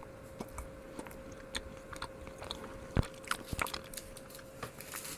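Close-up chewing of a piece of caramel-filled milk chocolate: soft wet mouth clicks and smacks scattered irregularly.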